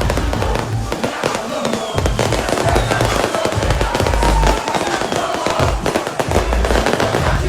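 Loud live concert music with a heavy pulsing bass beat over a dense, rapid crackling of fireworks.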